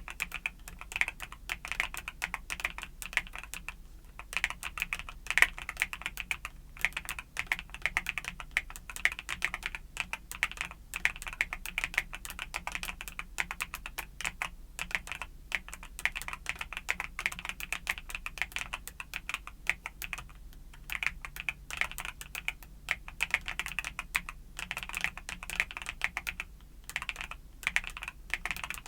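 Steady, fast typing on a mechanical keyboard with YUNZII Cocoa Cream switches, a dense run of crisp key clicks that breaks off for a moment a few times.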